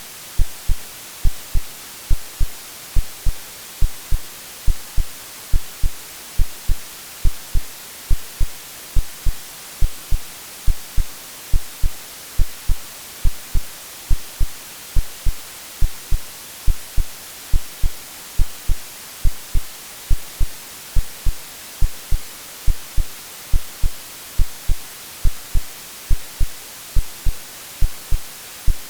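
Steady white noise hiss with an AI-generated heartbeat underneath, a low double thump (lub-dub) repeating evenly throughout.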